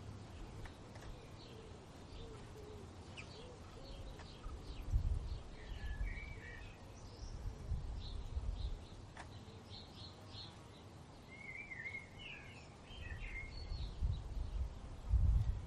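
Several songbirds chirping and singing in short, scattered phrases, over low gusts of wind rumbling on the microphone that swell now and then, strongest near the end.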